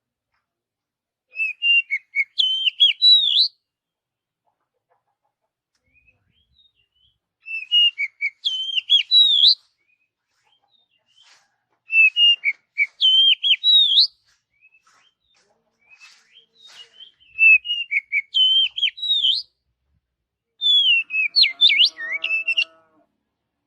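Oriental magpie-robin singing five short phrases of varied whistled notes, many of them rising, each about two seconds long with pauses of a few seconds between. A lower call sounds under the last phrase.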